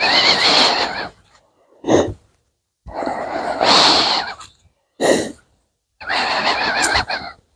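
Heavy breathing through a 3M respirator mask with acid-vapour filters, close to the microphone: five loud, hissing breaths with gaps between, some carrying a faint wavering whistle.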